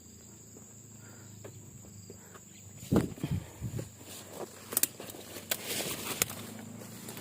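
Steady high insect whine, then about three seconds in a few loud close thumps, followed by scattered rustling and crackling of footsteps and handling in dry vegetation.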